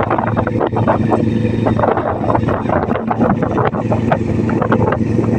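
A fishing boat's engine running steadily at a constant speed, with wind buffeting the microphone in irregular crackles over it.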